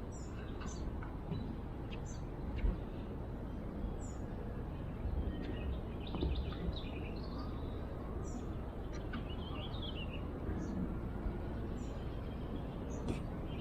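Songbirds chirping now and then: short high calls, some sweeping downward, with a small cluster of calls and a brief warble in the middle, over a steady low rumble.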